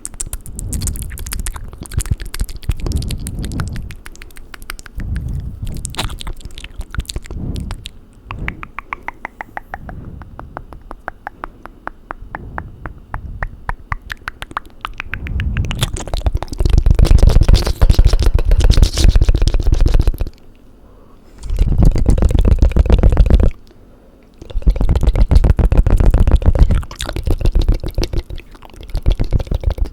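Fast, wet mouth and tongue sounds made close to a microphone: rapid clicks, smacks and tongue fluttering. A steady run of quick clicks comes in the middle. After that the sounds get louder and fuller, broken by two brief pauses.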